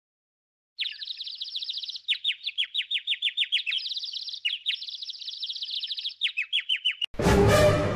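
Bird chirping in fast runs of short, high, downward-sliding chirps, starting about a second in. Near the end, loud music cuts in suddenly.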